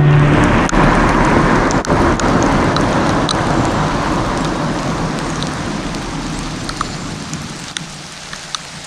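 Heavy rain falling, a dense steady hiss with scattered sharper drop ticks, slowly fading out.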